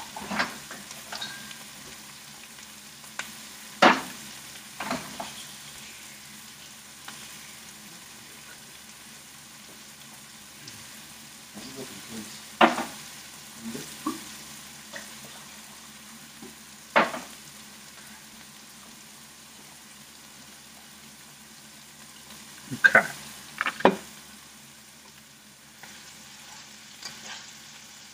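Vegetables frying in beef tallow in a pan, a steady sizzle as they brown, with a handful of short, sharp knocks or clinks scattered through it.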